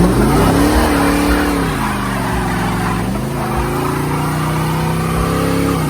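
A car engine revved up and held at high revs. The revs drop back about two seconds in, then climb again a little after three seconds and hold steady until near the end.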